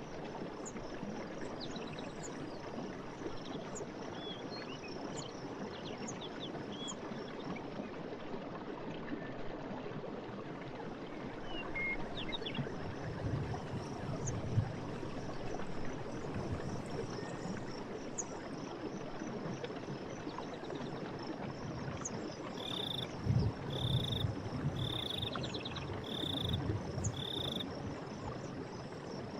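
Water running steadily in a forest stream, with scattered bird chirps and, near the end, a bird repeating one call five times at an even pace.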